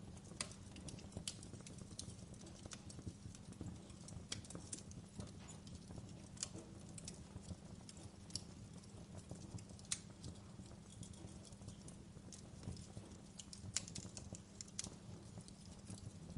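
Wood fire burning in a fireplace, with irregular sharp crackles and pops over a low steady rumble.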